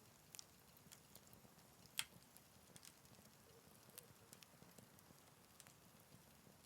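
Wood campfire in a Picogrill 398 crackling faintly, with sparse sharp pops. The loudest pop comes about two seconds in.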